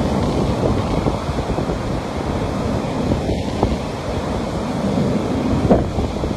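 Ocean surf: waves breaking and washing ashore in a steady rush, with wind buffeting the microphone.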